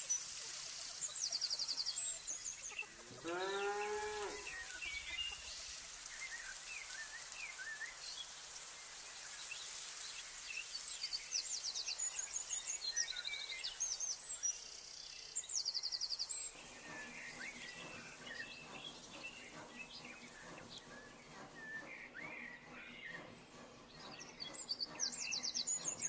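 Quiet outdoor ambience of small birds chirping and trilling repeatedly, with a single cow moo about three seconds in, lasting about a second.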